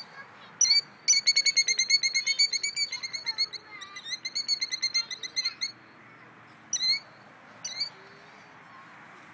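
Killdeer alarm calling at its nest: a sharp call, then a fast, high trill of notes lasting about four and a half seconds, then two more single calls.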